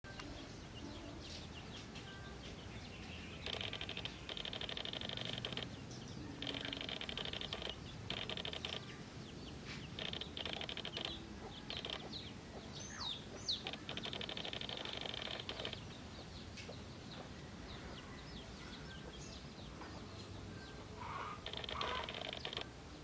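Small birds chirping, with repeated short rapid trills and a brief falling whistle partway through.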